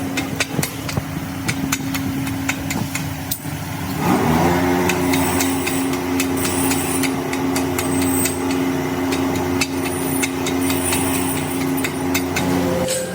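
Workshop machinery running with a steady electric-motor hum and many sharp metallic taps. About four seconds in, a machine spins up with a quick rising whine and runs steadily, then stops near the end.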